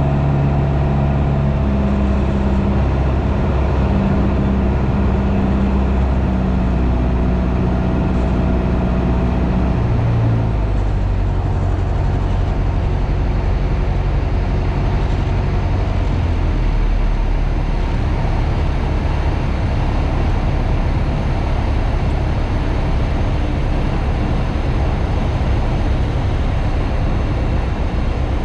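Piper PA28's piston engine and propeller droning steadily in the cockpit. About ten seconds in, the engine note drops to a lower steady drone as power is pulled back.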